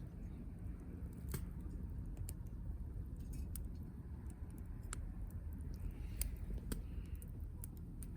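Wood campfire crackling: irregular sharp pops and snaps over a steady low background rumble.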